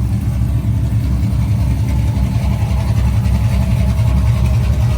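Chevy square-body race truck's engine idling with a loud, steady low rumble; it sounds good.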